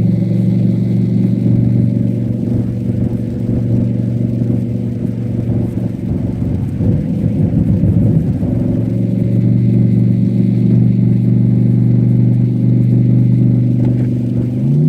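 Cadillac STS-V's supercharged 4.4-litre V8 running under steady throttle on track, holding a fairly even note with a rougher patch in the middle, then climbing in pitch near the end as it revs up.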